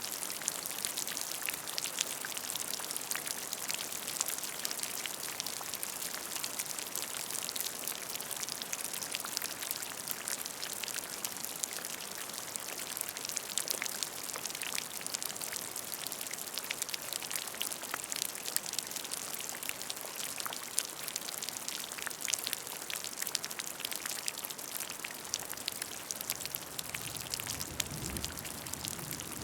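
Steady rain falling on a puddle of water, a dense hiss full of small, quick drop splashes. A brief low rumble comes in near the end.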